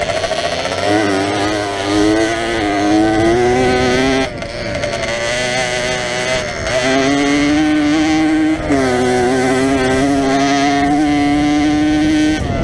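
Jawa 50 enduro's 50 cc two-stroke single-cylinder engine revving under load, its pitch climbing and falling with the throttle, with two sudden dips in revs, about four and eight and a half seconds in.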